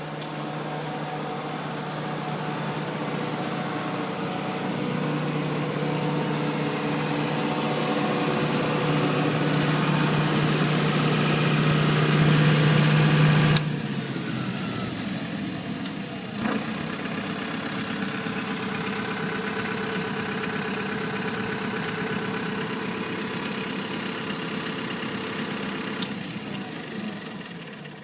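Turbocharged John Deere diesel engine of a 45 kW MultiQuip standby generator running steadily. It grows louder over the first half, then drops off abruptly with a click about halfway through and carries on steadily at a lower level.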